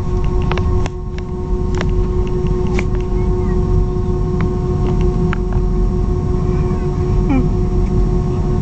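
Airbus A321 cabin noise: a steady low rumble with a constant mechanical hum of several steady tones, and scattered sharp clicks and rattles.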